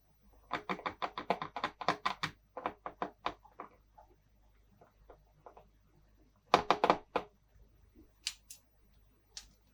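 Plastic toy playset pieces being handled, with quick runs of sharp taps and clicks, about eight a second at first, a louder cluster of clicks about two-thirds of the way in, and a few single clicks near the end.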